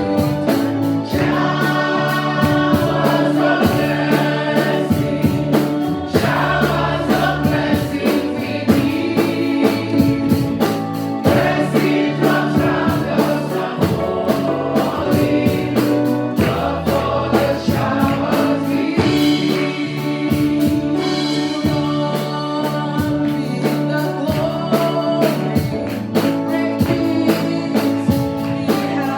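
Gospel praise-and-worship music: a choir singing over a band with bass and a steady beat.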